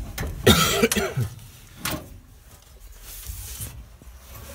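A man coughs harshly about half a second in, followed by a shorter burst near two seconds.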